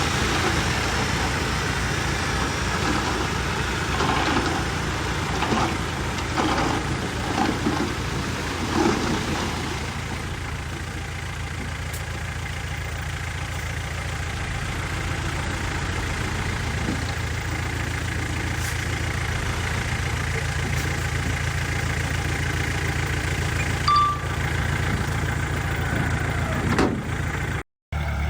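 Heavy diesel engine of earthmoving machinery running steadily, with several clanks and knocks in the first ten seconds. The sound cuts out for a moment near the end.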